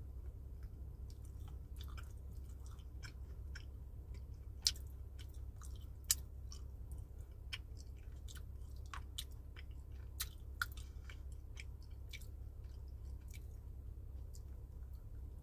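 Close-up crunching and chewing of dry fruit: many sharp, crisp crackles, with a few louder snaps, over a steady low hum.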